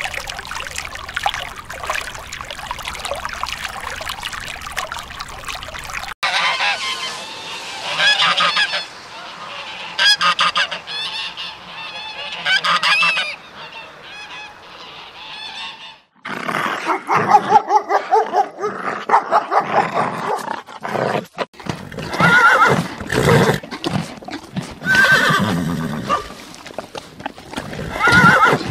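Water splashing and churning for the first several seconds, then domestic geese honking in repeated loud calls. More loud animal calls continue through the second half.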